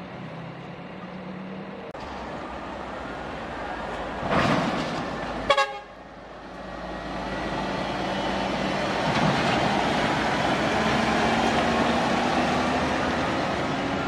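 Heavy diesel trucks running past, with a loud swell of engine noise building from about seven seconds in. A very short horn toot sounds about five and a half seconds in.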